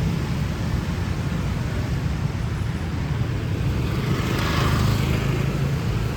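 City street traffic: a steady rumble of passing vehicle engines and tyres, with one vehicle passing close and getting louder about four seconds in before fading.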